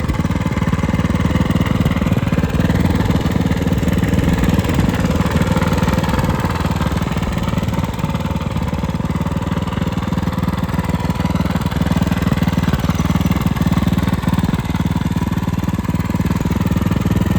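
Small single-cylinder engine of an FRP GMB100 minibike running steadily at an even speed.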